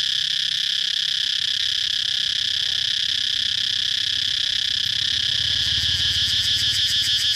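Cicadas calling in a steady, high buzzing drone; about five seconds in, a rapid even pulsing joins the drone.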